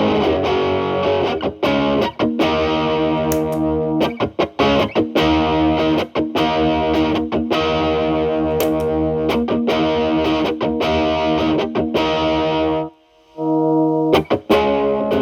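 Electric guitar (a Telecaster) through an MI Audio Crunch Box distortion pedal into a Marshall Valvestate amp's clean channel, playing chords and riffs with a fuzzy, saturated distortion. The playing stops for about half a second around thirteen seconds in, then resumes with the guitar cleaned up for a less distorted tone.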